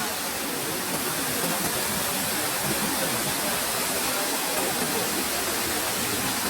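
Waterfall pouring into its pool, a steady, even rush of falling water.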